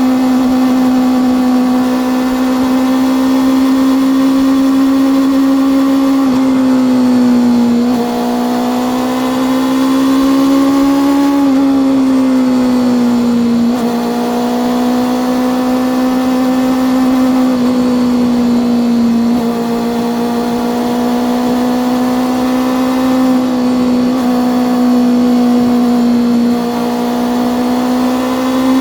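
Honda CB400 Super Four's inline-four engine and exhaust under way, holding a fairly steady pitch at cruise. The pitch rises and falls gently a few times as the throttle is eased on and off, with brief drops in level about a third of the way in, near the middle and near the end.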